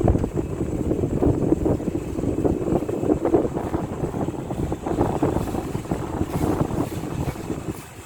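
Venti-Delta Premium 40 cm wall fan running, its air stream blowing straight onto the microphone as an uneven, rumbling rush of wind noise.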